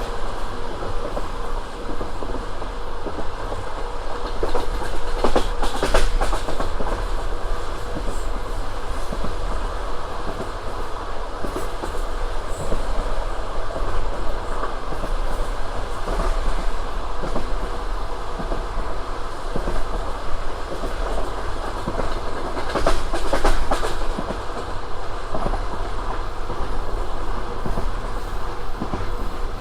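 Passenger train running along the track, heard from on board: a steady rolling rumble with the clickety-clack of the wheels over rail joints. The clacks come in a group about five seconds in and again about twenty-three seconds in.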